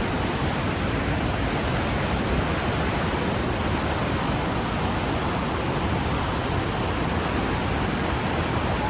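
Montmorency Falls, an 83-metre waterfall, rushing in a steady, even noise.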